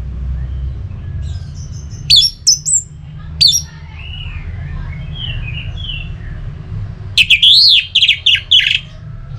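Orange-headed thrush singing: loud, fast whistled phrases about two seconds in and again near the end, with softer warbling between, over a low steady hum.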